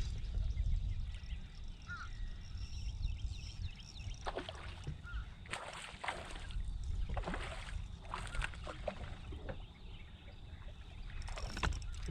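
Ambience on a fishing boat on the water: a low, steady rumble with several short knocks or splashes over it.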